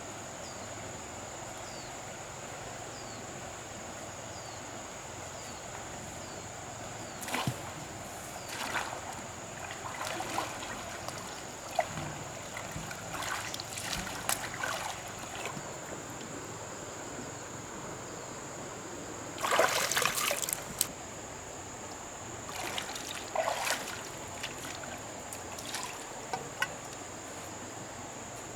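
River water splashing and sloshing in irregular bursts, the biggest splash about two-thirds of the way in, over a steady trickle and a constant thin high-pitched tone.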